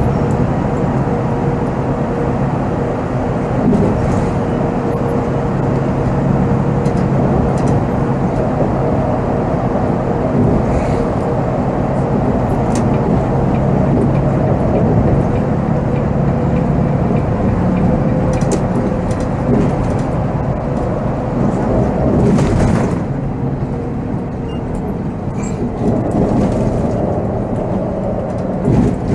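Volvo B7R coach's diesel engine running steadily under way, heard from the driver's cab, with light clicks and rattles. A brief hissing burst comes about 22 seconds in.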